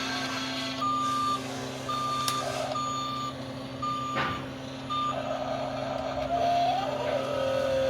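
Reversing beeper of a toy remote-control JCB, a steady tone beeping about once a second, five times, over a steady hum; near the end a different tone wavers up and then down.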